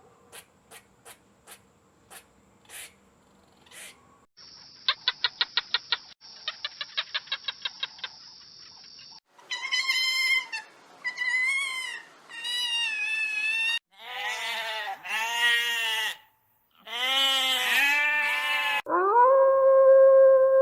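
A run of different animal calls one after another: a few faint clicks, then two fast rattling trills, then a series of wavering, quivering calls. About nineteen seconds in, a long, loud, steady call begins.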